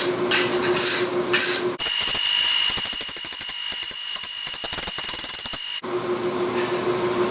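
A steady low hum, then abruptly a power tool runs with a high steady whine and rapid ticking for about four seconds before cutting off suddenly.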